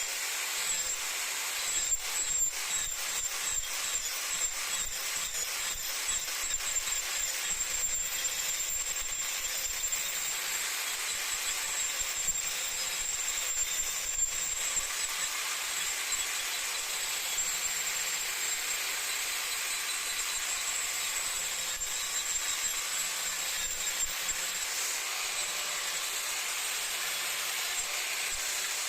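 Power tool working wood: a steady high-pitched whine over a rough hiss, with rapid scratchy ticks through the first half.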